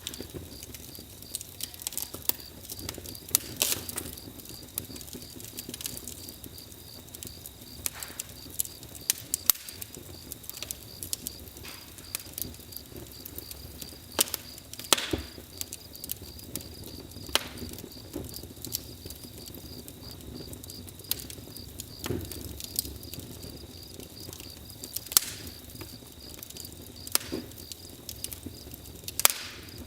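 Campfire crackling: wood burning with a low hiss and frequent sharp pops and snaps at irregular intervals, a few of them louder than the rest.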